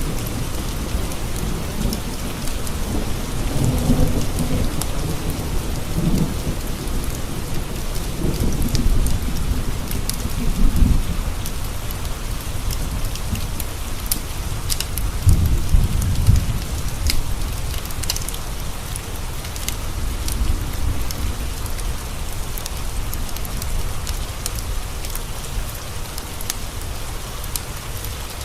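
Steady rain pattering on windowpanes, with thunder rumbling low through the first ten seconds or so and again about fifteen seconds in. Scattered sharp crackles from a wood fire sound over the rain.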